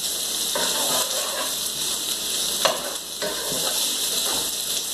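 Brussels sprouts and onions sizzling steadily in a stone-coated skillet over a gas flame, sautéing in very little oil. A wooden spoon stirs them, with a few short scrapes against the pan.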